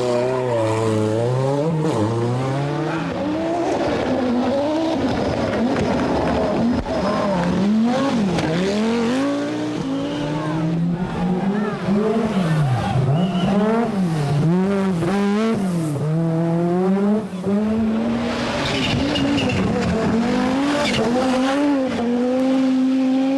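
Group B rally car engine revving hard, its pitch climbing and dropping back over and over as it shifts gears and brakes for corners, with tyres squealing.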